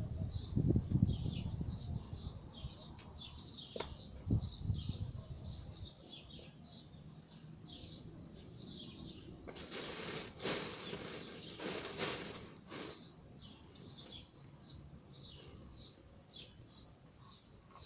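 Small birds chirping, short high chirps repeating over and over. About ten seconds in, a few seconds of louder rustling.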